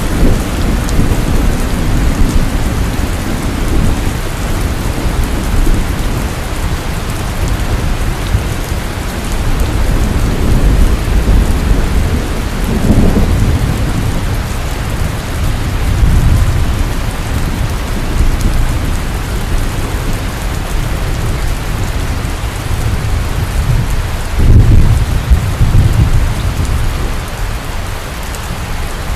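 Heavy rain pouring steadily, with deep rolling thunder rumbling underneath that swells several times and peaks loudest near the end.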